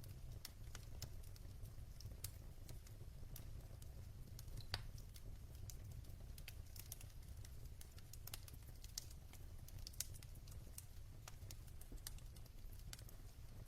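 Log fire in a fireplace crackling: scattered small snaps and pops at an irregular pace over a steady low rumble, with one louder pop about five seconds in.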